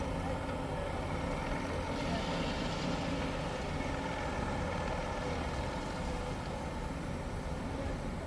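Engines running steadily, a low even drone without distinct knocks or bangs.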